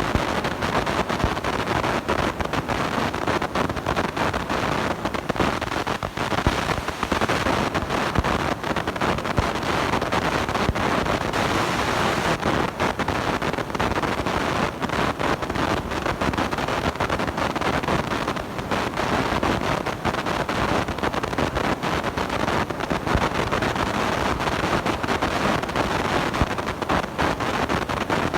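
A blown microphone giving a steady, harsh rush of distorted noise, with constant crackle through it.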